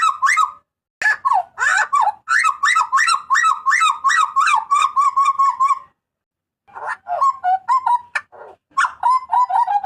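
A hooded butcherbird (jagal papua) calling loudly: rapid runs of short, ringing notes, about four or five a second, ending in a quick level run of notes. It pauses briefly about six seconds in, then starts another phrase.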